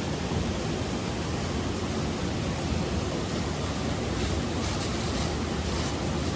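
Steady rushing water noise, an even wash of sound from heavy rain or flowing floodwater, slightly brighter and more hissing about two thirds of the way through.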